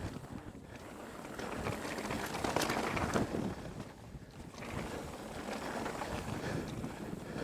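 Mountain bike rolling fast down a dirt trail: tyre noise and wind rush on a helmet-mounted action camera, swelling louder for a second or so about two seconds in.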